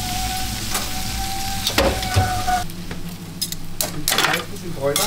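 Food frying with a steady sizzle and a few sharp knocks. A little past halfway the sizzle stops abruptly and gives way to scattered clicks and clatter.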